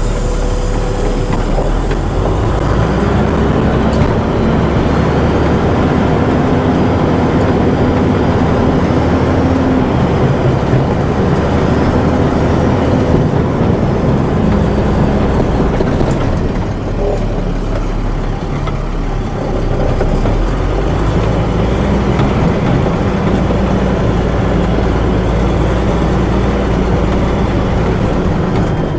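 Tractor engine working hard under load, its pitch stepping up about two seconds in, sagging in the middle, then rising again about twenty seconds in.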